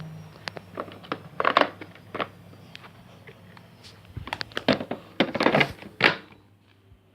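Handling noises: a run of sharp clicks and knocks, with louder clattering clusters about a second and a half in and again around five seconds in, then quieter near the end.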